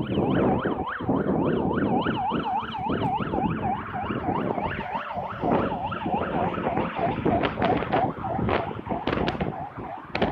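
Police car siren on its fast yelp setting, the pitch sweeping up and down about three times a second, over a steady rushing background noise; it fades near the end.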